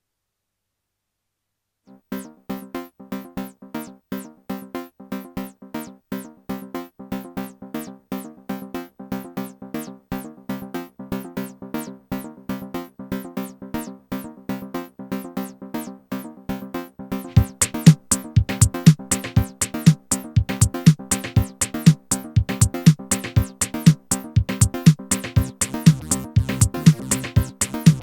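Techno music from a synthesizer and drum machine. A fast, evenly repeating synth sequence with a steady low drone starts about two seconds in. A little past halfway a heavy kick drum joins and the music gets much louder.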